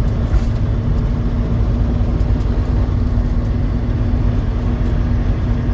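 Truck running steadily: a constant low rumble of engine and road noise with a steady hum underneath.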